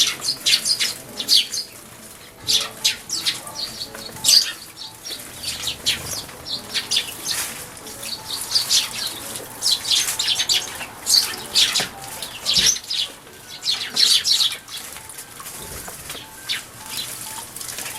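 Eurasian tree sparrows bathing in a shallow bird bath: repeated quick flurries of wing-fluttering and splashing, with chirps in between.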